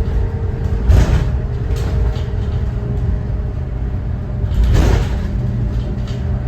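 A 2014 Thomas Saf-T-Liner C2 school bus under way, its Cummins ISB 6.7 inline-six diesel running with a steady low rumble. Two louder knocks with rattling come about a second in and again near five seconds.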